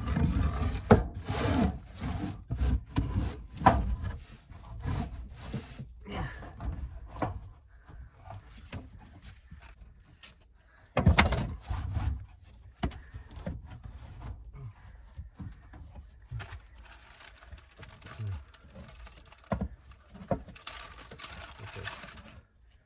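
Pieces of 2x4 lumber being handled: a run of wooden knocks and thuds, one louder thud about halfway through, and a rubbing scrape near the end.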